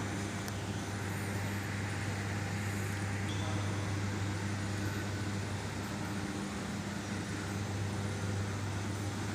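A steady low hum over an even background noise, with no distinct events.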